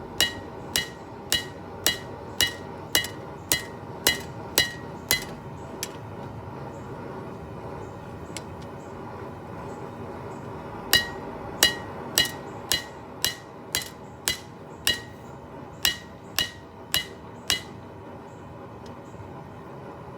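Hand hammer striking a hot steel knife blade on an anvil, the blows ringing out at about two a second as the blade is drawn thinner toward the tip. A run of about ten blows, a pause of several seconds, then another run of about a dozen, over a steady background hum.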